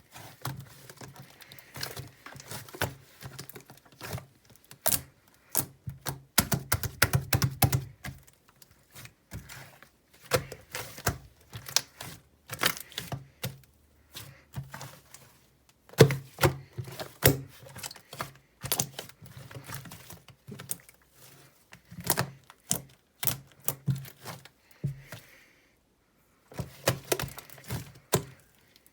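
Fluffy slime being squeezed and pressed by hand, making quick, irregular clicks and pops with a brief lull near the end.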